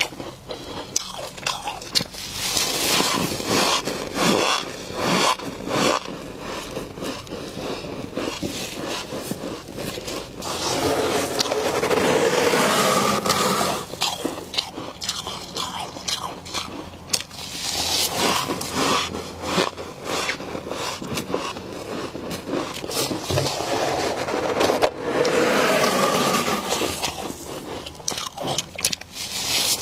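Frost being scraped and bitten, crunching and crackling in dense, irregular clicks, with a few longer scraping and chewing stretches.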